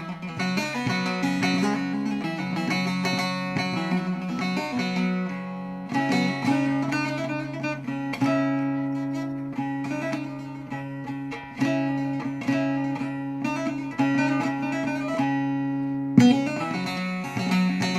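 Bağlama (saz) played solo in a free, improvised style: quick plucked melody notes over ringing low drone strings, with harder strums about six, eight, eleven and a half, and sixteen seconds in.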